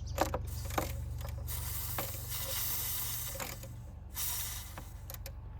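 A few sharp metallic clicks and knocks of parts being worked loose in a car's engine bay, then a hiss lasting about two and a half seconds, over a steady low hum.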